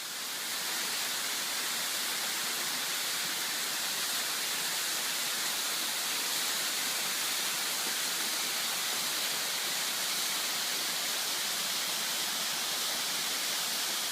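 Waterfall: a steady, even rush of falling water, strongest in the hiss, fading in over the first second.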